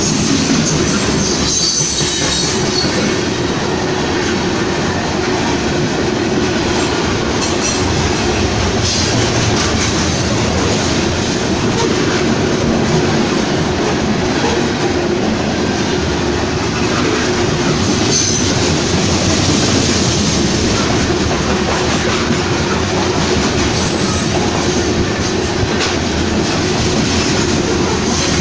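Railroad train passing close by: a steady loud rumble of wheels rolling on the rails, with clacking over the rail joints.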